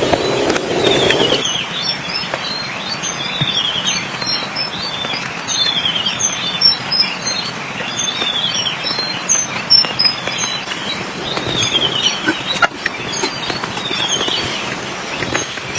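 Forest ambience with birds calling: a trilling call that falls in pitch repeats every couple of seconds, with short high chirps between, over a steady hiss. A louder rushing noise stops abruptly about a second in.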